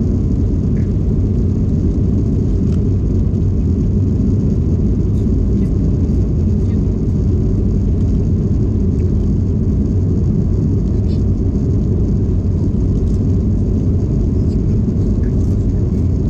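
Steady low rumble of an airplane's engines and airflow heard inside the cabin, unchanging throughout.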